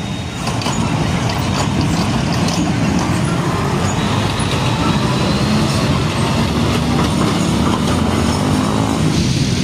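Heavy road traffic, with large diesel trucks passing close by: steady engine sound over tyre and road noise.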